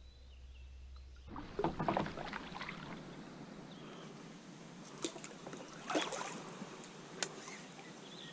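Kayak paddling: paddle strokes dipping and splashing in the water, with a few sharp knocks about five, six and seven seconds in.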